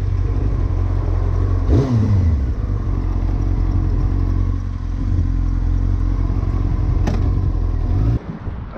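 Motorcycle engine running, with a quick rev up and back down about two seconds in and a sharp click near seven seconds; the sound cuts off abruptly just after eight seconds.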